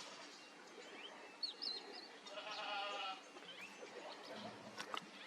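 A single drawn-out bleating call from an animal, about two and a half seconds in, with several short rising chirps from birds before it and a few sharp clicks near the end.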